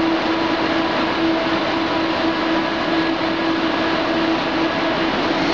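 KLIA Ekspres electric train approaching the station platform: a steady loud rumble with a steady humming tone over it.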